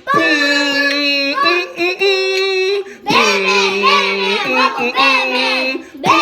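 A class of young children singing together, in about four sustained sung phrases with short breaks between.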